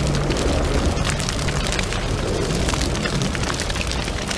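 Fire sound effect: a blaze crackling and popping with many sharp snaps over a low rumble.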